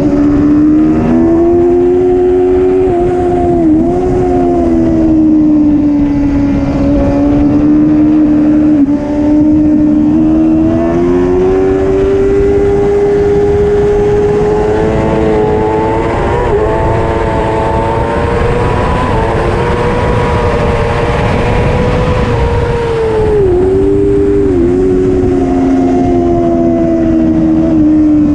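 Superbike engine running hard at high revs, its pitch climbing slowly and dipping briefly about four seconds in and twice near the end, over a steady rush of wind.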